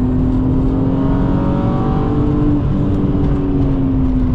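E36 BMW M3's straight-six engine, heard from inside the cabin, pulling under throttle with its pitch climbing slowly. About two and a half seconds in, the pitch steps down a little and eases lower as the driver comes off the power, over a heavy low rumble of road and tyre noise.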